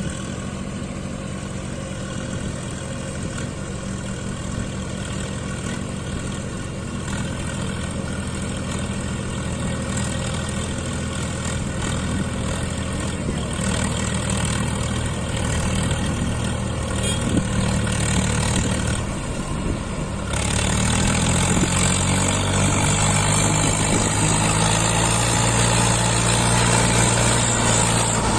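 Diesel tractor engine running steadily while pulling a fully loaded trolley. About twenty seconds in, the sound jumps louder and the engine note changes.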